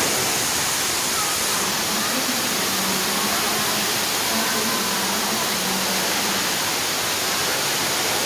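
Artificial waterfall in a shopping mall: water falling in a steady, continuous rush, with faint voices underneath.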